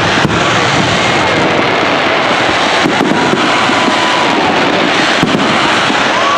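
Fireworks display: several sharp bangs, near the start, about three seconds in and again after five seconds, over a steady loud rumble of noise, with faint whistling tones.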